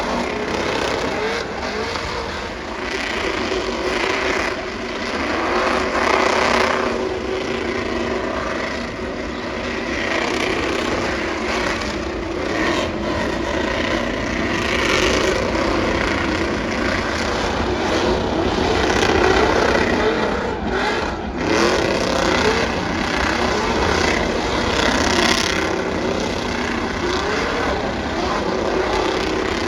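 Vehicle engines revving, their pitch rising and falling again and again over a continuous rushing noise.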